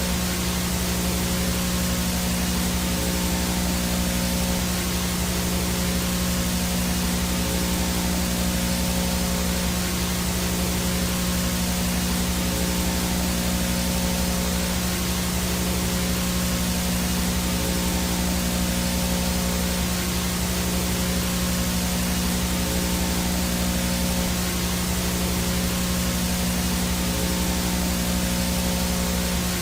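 VHS static noise, the no-signal sound of an analog video picture: a steady, even hiss with a constant low hum underneath and a few faint steady tones.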